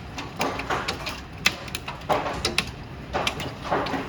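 Hailstones striking hard surfaces during a hailstorm: irregular sharp cracks and taps, a few loud, over a constant rush of heavy rain.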